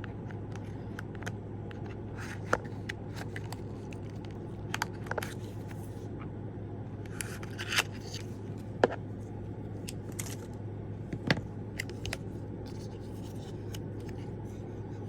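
Small wrapped package being worked open by gloved hands: scattered clicks, crinkles and scrapes of the wrapping, a few of them sharper and louder, over a steady low hum.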